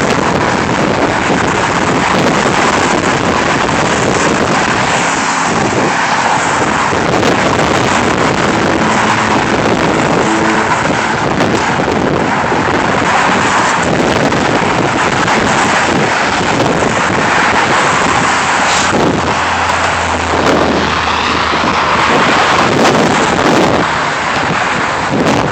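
Steady, loud wind rushing over a phone's microphone while cycling, mixed with the noise of car traffic. A low hum joins for a few seconds about 19 seconds in.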